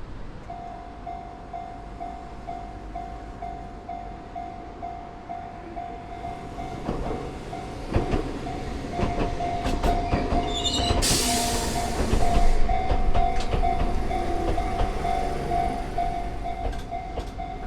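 Japanese level-crossing warning bell ringing at about two strokes a second as an Enoshima Electric Railway train approaches and passes, its wheels knocking over the rail joints. The train is loudest about two-thirds of the way through, with a short hiss partway through the pass.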